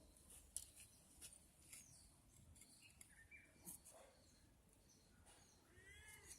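Near silence: faint room tone with scattered small clicks, and a faint short high call near the end.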